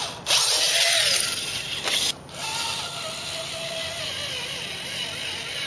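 RC crawler driven by a Traxxas Titan 550 12-turn brushed electric motor through a 4:1 transmission, running with a hissy whine whose pitch wavers up and down with throttle. It is louder for about two seconds near the start, cutting in and out abruptly, then steadier.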